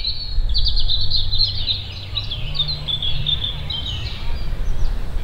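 Small birds chirping and twittering in quick succession from the trees around the ground, over a steady low rumble.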